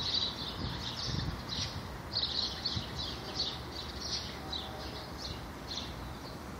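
A small bird chirping over and over, two or three short high chirps a second, fading out near the end, over a low rumble of wind and handling on the microphone.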